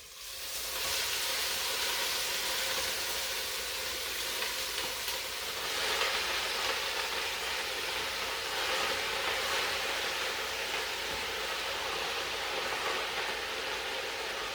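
Collard greens cooking in a hot pot just after being put in: a steady hiss that comes up about half a second in.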